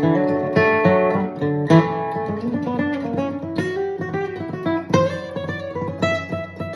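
Martin HD-28 dreadnought acoustic guitar playing a lead break: strummed chords for about two seconds, then a quick run of single picked notes.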